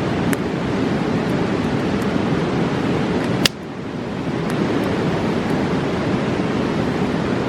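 Steady rush of a fast mountain river, with campfire crackles: a few light ticks and one sharp pop about three and a half seconds in, after which the rush dips briefly and swells back.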